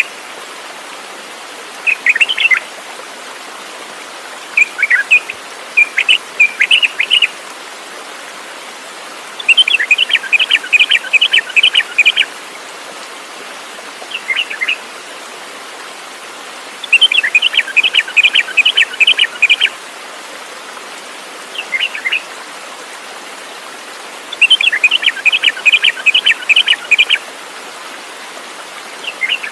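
A songbird singing: short bursts of sharp chirps alternating every few seconds with longer phrases of rapid repeated notes, each phrase about two to three seconds long, over a steady background hiss.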